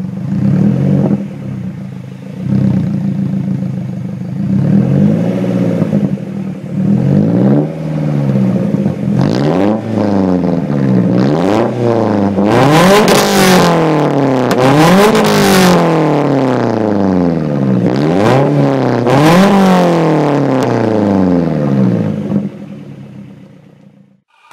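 Peugeot 206 GTI S16's four-cylinder engine idling through its exhaust, then revved about ten times in quick blips, each one a sharp rise and fall in pitch. The sound fades out near the end.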